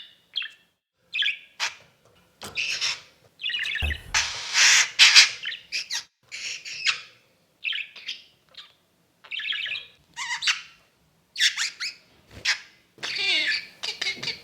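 Pet parrot calling: a run of about a dozen short, separate squawks and chirps, with a longer, harsher squawk about four seconds in, just after a brief low thump.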